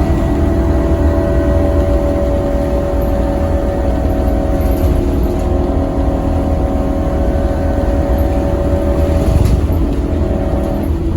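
Scania K270UB6 Omnilink tri-axle bus running under way: a steady low rumble with a steady whine over it, and the whine drops away near the end.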